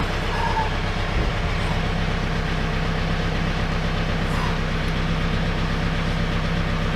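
Small John Deere tractor's engine idling steadily, an even low drone with a constant hum.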